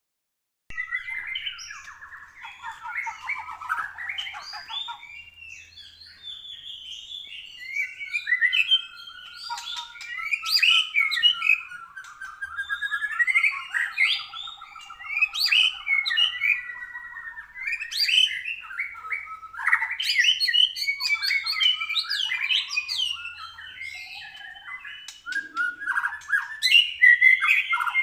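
White-rumped shama singing a long, varied song of clear whistles, rapid trills and sharp notes, in phrases with brief breaks. The owner judges the bird still lacking fire during this training session.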